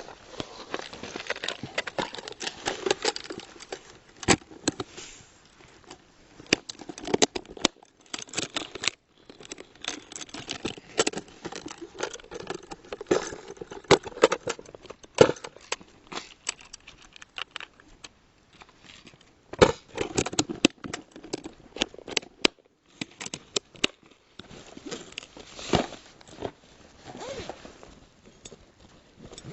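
Close handling noise: dense, irregular clicking, crackling and rustling, broken by a few brief silent gaps.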